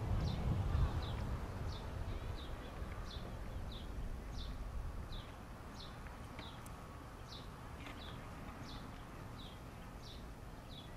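A bird chirping over and over, short high chirps that each drop in pitch, about two a second. Under it is a low rumble that eases off over the first few seconds.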